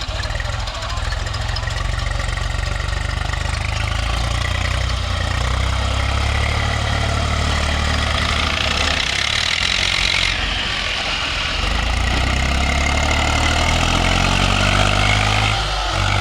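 Diesel tractor engine running steadily, its low note stepping up and down a few times. A harsher hiss joins about eight seconds in and cuts off sharply about two seconds later.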